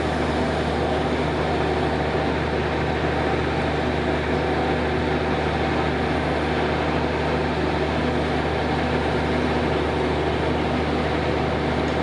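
Passenger train coaches rolling past on the track: a steady rumble with a constant low hum running under it.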